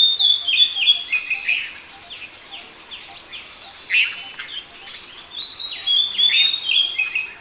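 Indian paradise flycatcher calling: a run of short, falling notes stepping down in pitch, given twice, with a single sharp falling call between them.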